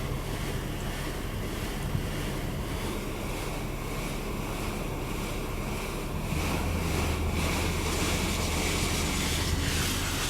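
D&S 5000 automatic car wash's spot-free rinse spraying water over the van, a steady hiss heard from inside the cabin, with a low machine hum growing stronger about six seconds in.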